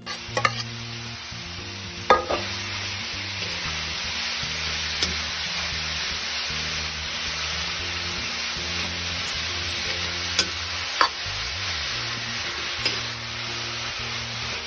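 Grated carrots frying in hot ghee in a kadhai, sizzling steadily as a steel ladle stirs them, with several sharp clinks of the ladle against the pan.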